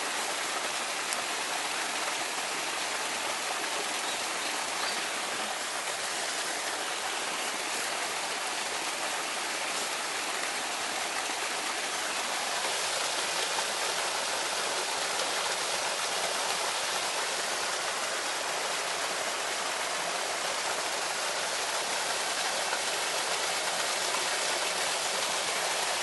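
Steady rushing of running water, with no breaks or separate drops, growing slightly louder about halfway through.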